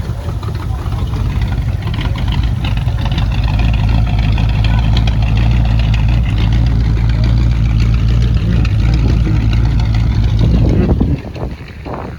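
Vehicle engine running with a steady low drone that drops away about eleven seconds in.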